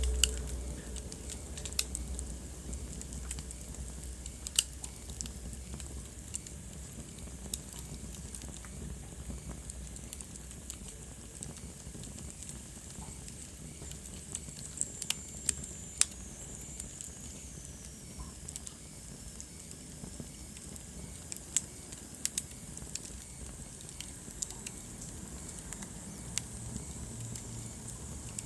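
Wood fire burning in a fireplace: a steady soft hiss with irregular sharp crackles and pops. About halfway through, a faint high whistle slides down in pitch. A low rumble fades out in the first few seconds.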